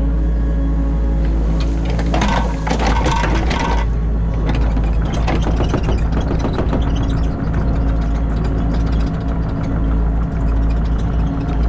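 Excavator engine running steadily, heard from inside the cab, with a burst of clattering and scraping about two seconds in that fades into scattered clicks.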